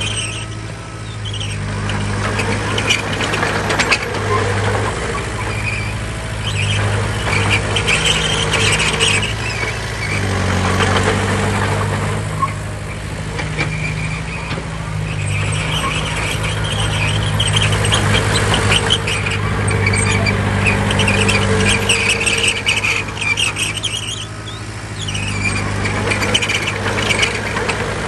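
Heavy diesel earth-moving machinery running, its engine note rising and falling with load every several seconds, with repeated bursts of high metallic squeal and clatter.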